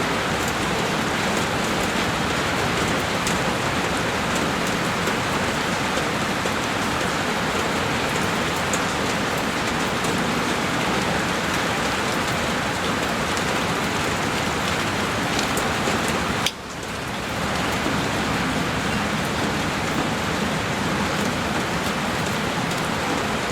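Heavy rain on a window pane, a dense steady hiss with scattered drop ticks. About two-thirds of the way through it cuts out for a moment and swells back over about a second.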